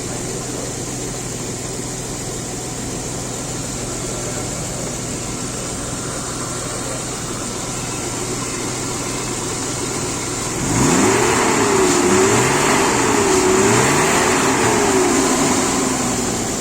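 BMW engine with a freshly renewed VANOS unit running steadily, free of the VANOS ticking. About eleven seconds in it gets louder as the revs rise and fall several times, then it eases back.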